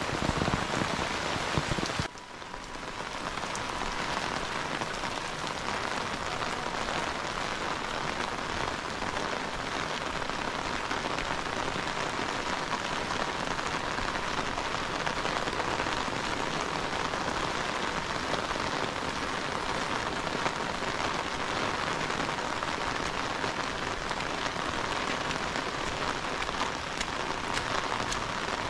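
Heavy rain falling steadily, an even hiss. About two seconds in it abruptly turns quieter and loses its deeper sound, then runs on evenly.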